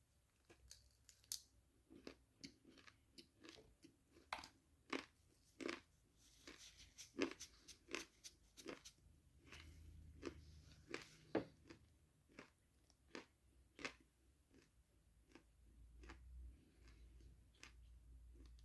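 Close-up chewing of crunchy food: sharp, irregular crunches, roughly two a second, as the food is bitten and chewed with no talking.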